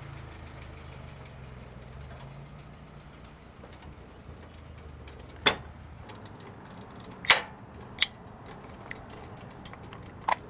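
A vehicle idling with a low steady hum that fades about halfway through, then several sharp clacks, the loudest two close together around seven to eight seconds in.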